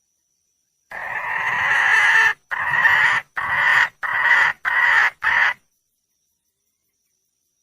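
Red junglefowl hen calling: one long call of about a second and a half, then four shorter calls in quick succession. It is the hen's call for a mate.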